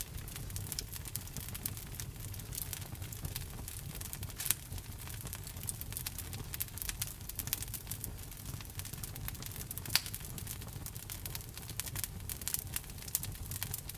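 Wood fire burning in a fireplace: logs crackling with a dense scatter of small pops over a low rumble of flame. A couple of sharper pops stand out, about a third of the way in and again about two-thirds in.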